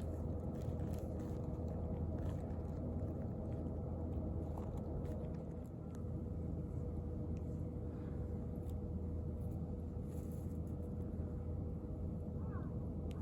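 Steady low outdoor rumble with a faint constant hum and a few scattered faint clicks; near the end a few short high chirps begin.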